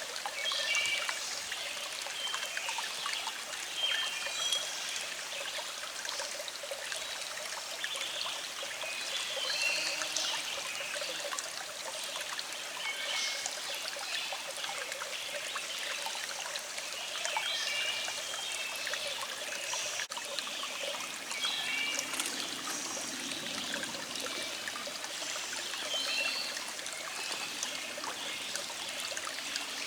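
Small stream trickling and flowing steadily, with birds singing in short phrases every few seconds in the background.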